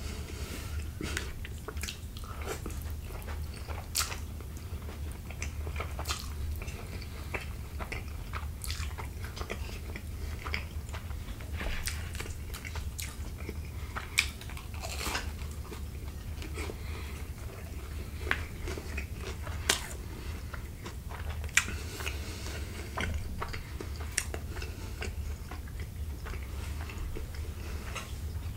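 Close-miked mukbang eating of fettuccine Alfredo and garlic bread: chewing and biting with scattered mouth clicks and smacks, a few of them sharper and louder, over a steady low hum.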